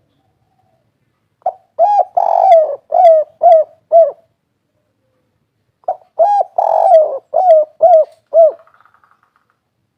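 Spotted dove (derkuku) cooing its 'kuk 3' song: two phrases a few seconds apart, each a short lead-in note, a longer drawn coo, and three clipped 'kuk' notes at the end.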